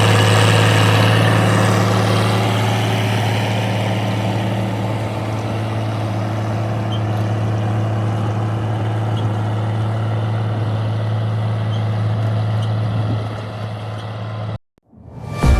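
Fiat 1300 DT Super's six-cylinder diesel engine running steadily under load while pulling a ripper. It grows quieter near the end and then cuts off abruptly.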